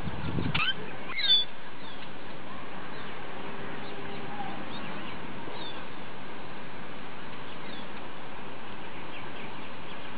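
Birds chirping: a cluster of short calls in the first second and a half, then a few faint scattered chirps, over a steady, even background noise.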